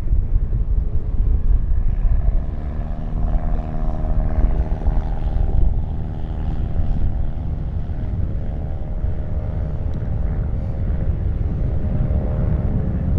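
An aircraft's engines passing: a steady hum of several tones that comes in about two seconds in and fades near the end. Heavy wind rumble on the microphone runs under it.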